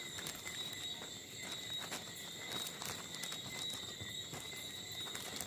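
Night insects singing a steady, high, even trill, with scattered light clicks and knocks from hands at work.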